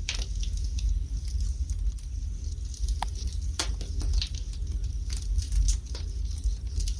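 Wood fire burning in a fireplace: irregular crackles and sharp pops, a few a second, over a steady low rumble of the flames.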